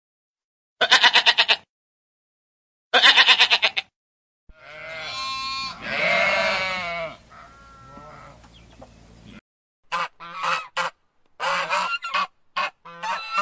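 Domestic geese honking: two quick bursts of rapid-fire honks, then a longer wavering call, then a string of short honks near the end.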